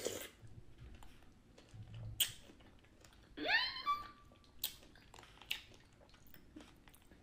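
Mouth sounds of a person chewing a spoonful of fruit in milk, with soft scattered clicks and taps. About halfway through comes a brief sound that slides up in pitch and then holds.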